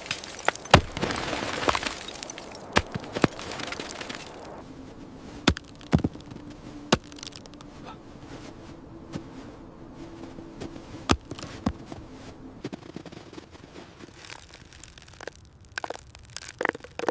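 About ten sharp cracks at irregular intervals over a background hiss that thins after about four seconds.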